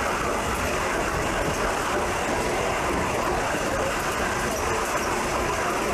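Steady running noise of a passenger train on the Tamsui railway line, an even rumble with no distinct knocks or changes.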